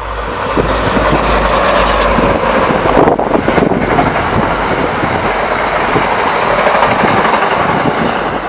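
NJ Transit diesel-hauled train passing at speed: the trailing locomotive goes by at the start, then the string of passenger coaches rolls past with a steady rush and rumble of steel wheels on rail. The sound is loudest in the first two or three seconds and stays loud until near the end.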